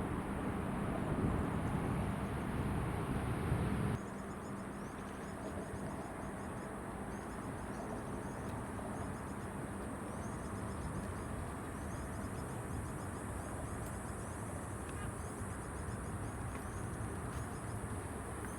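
Low rumble of a jet airliner's engines for about four seconds, cut off abruptly. Then a quieter steady outdoor background with rapid, repeated high chirping from birds or insects.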